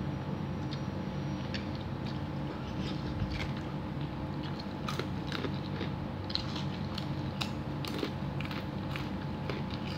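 Close-up mouth sounds of a person eating chicken soup: chewing with scattered wet clicks and small crunches, over a steady low hum.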